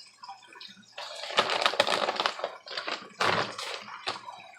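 Crinkling, rustling handling of cheese and its packaging as cheese is sprinkled over a lasagna layer, in two spells: about a second in and again about three seconds in.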